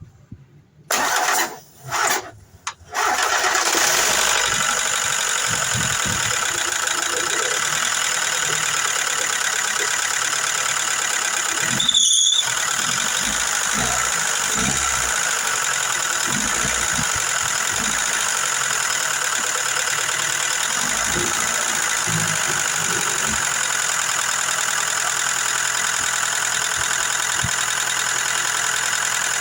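Car engine cranked by the starter in short bursts, catching about three seconds in and then idling steadily, its empty hydraulic lifters meant to refill with freshly added oil. A brief sharp sound about twelve seconds in.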